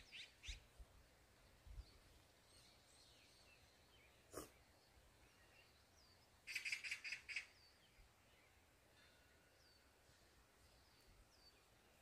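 Quiet open countryside with faint, scattered bird chirps. Past the middle, a bird gives a rapid, high trill of about ten notes lasting about a second. A single sharp click sounds a little after four seconds in.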